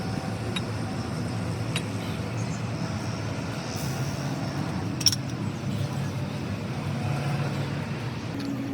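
Steady rumble of motor vehicles with a few sharp clicks, the loudest about five seconds in.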